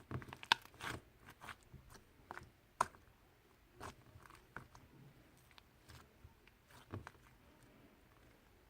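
Irregular small clicks and crunchy crackles of something being handled close up. They are thickest in the first second, with the sharpest click about three seconds in and another cluster near seven seconds.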